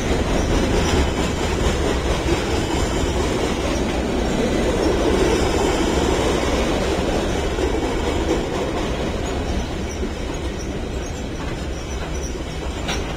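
Loaded freight flatcars rolling past at close range: the steady noise of steel wheels running over the rails, a little louder in the middle and easing slightly toward the end.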